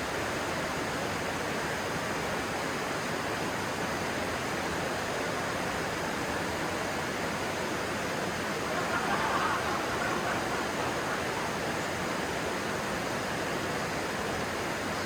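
Steady rushing of a flowing stream, with a brief swell in the water sound about nine seconds in.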